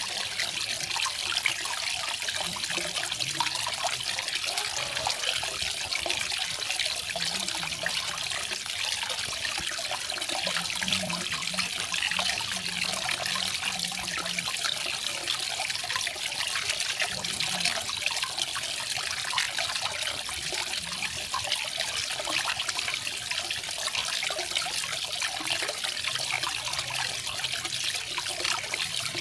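Small garden waterfall: water falling and splashing steadily.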